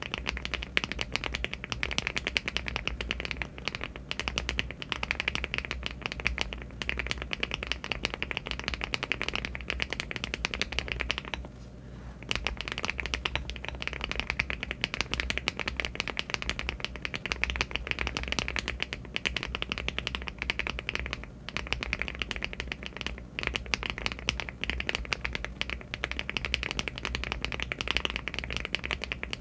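Fast continuous typing on a LEOBOG Hi75 aluminium-case mechanical keyboard fitted with HMX Hyacinth V2U linear switches and Cherry-profile keycaps, a dense stream of key clicks with one brief pause about eleven seconds in.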